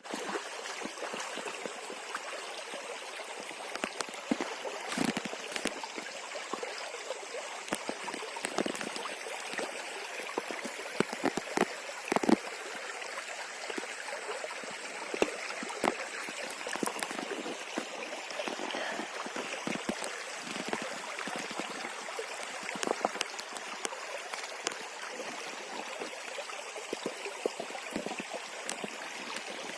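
Flowing river water, a steady rushing with many short, sharp splashes or knocks scattered through it.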